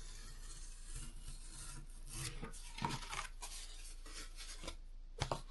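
Craft knife drawn through cardboard: a faint scratchy rasp in several strokes, with a couple of light clicks near the end.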